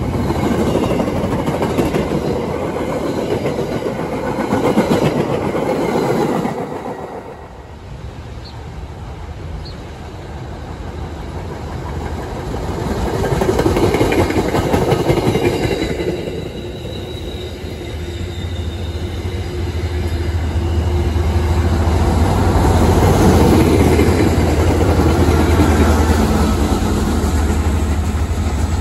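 MBTA commuter rail trains passing at speed, coaches rumbling and wheels clattering over the rail joints, in several passes that rise and fall. In the last third, a steady low drone from a diesel locomotive's engine sits under the wheel noise as the locomotive comes by.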